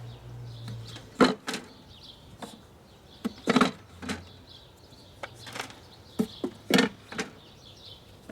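Wooden beehive frames knocking against one another and the hive box as they are set in and shifted, a series of sharp clunks at uneven intervals.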